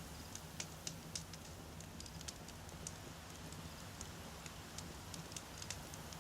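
Wood campfire crackling: many irregular sharp pops and snaps over a low, steady rumble of the flames.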